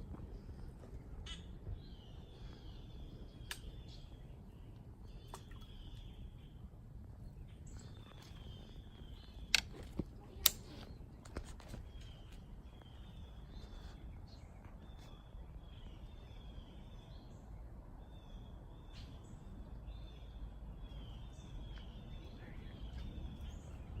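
Birds calling over and over, each call about a second long, over a steady low rumble, with a few sharp clicks about ten seconds in.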